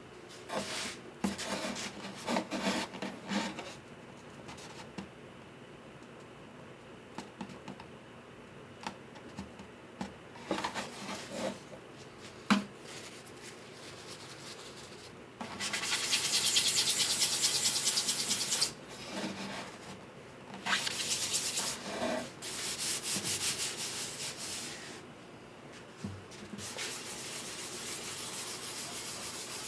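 Sandpaper worked by hand over guitar wood: a few short scrapes and small knocks at first, then long, even passes of sanding through the second half.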